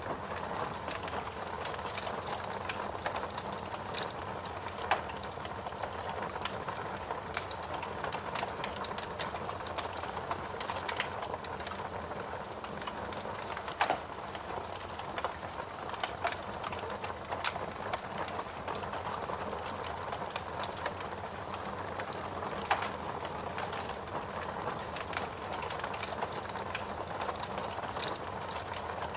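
Wood log fire burning in a fireplace: a steady hiss of flames with frequent small crackles and a few louder pops scattered through.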